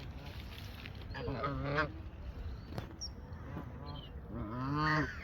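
Geese honking at the lakeside: two long, wavering calls, about a second in and again near the end, with faint high bird chirps between them.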